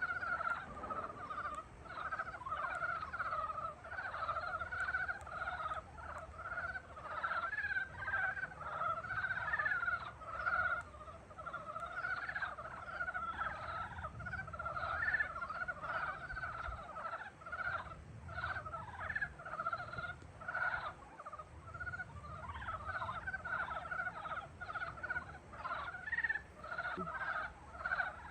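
A chorus of many frogs calling at once in spring, their short pulsing calls overlapping into a continuous din.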